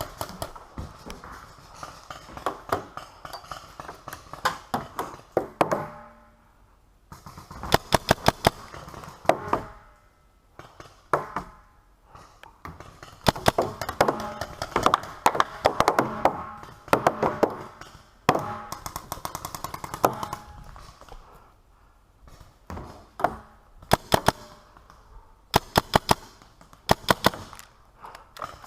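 Paintball markers firing in quick strings of sharp shots, several volleys with short lulls between them. The loudest strings come about a third of the way in and again near the end.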